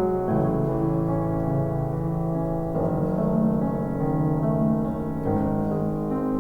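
Soft background piano music, slow held chords changing every couple of seconds.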